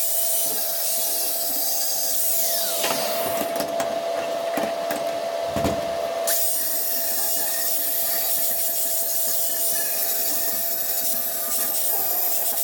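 Handheld abrasive power tool sanding welded steel scrap: a steady motor whine under a continuous scraping hiss. The hiss breaks up with a few knocks for about three seconds in the middle, then carries on.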